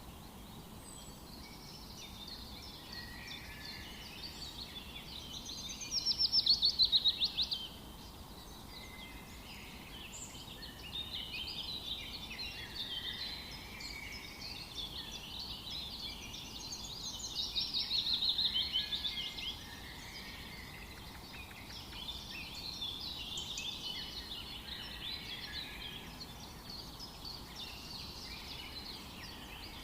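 Several songbirds singing and chirping at once over a faint steady background, with two louder rapid trills, about six seconds in and again about seventeen seconds in.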